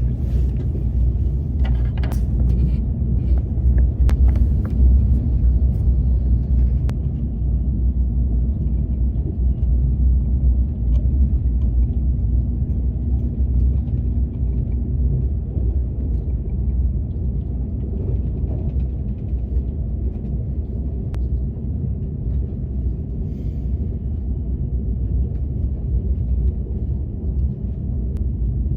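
Steady low rumble of a KTX high-speed train running, heard from inside the passenger cabin. A few light clicks and taps in the first several seconds.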